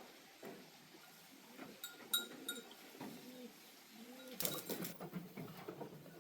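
Short, low animal calls, each rising and falling in pitch, repeat about once a second. A brief clatter comes about four and a half seconds in.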